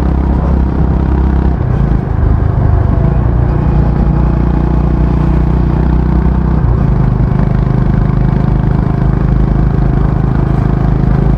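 Honda H'ness CB350's single-cylinder engine and stock exhaust running while the motorcycle is ridden, with a brief dip and a change in engine pitch about two seconds in, then a steady exhaust note.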